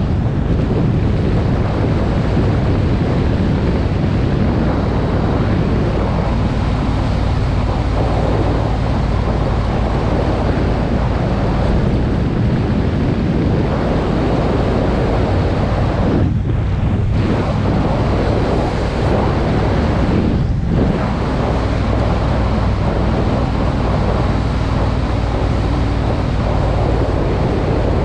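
Wind buffeting the camera microphone on a moving motorcycle, over the steady running of a Triumph Speed Twin's parallel-twin engine. The wind noise eases briefly twice, about sixteen and twenty seconds in.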